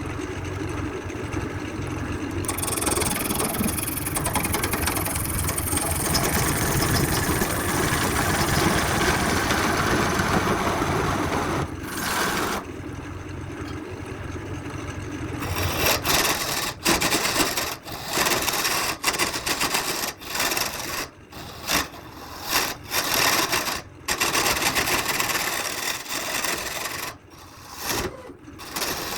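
A wood lathe running while a turning tool scrapes and cuts the spinning workpiece: a steady rasping for the first dozen seconds, then, from about halfway, many short bursts of cutting broken by brief pauses.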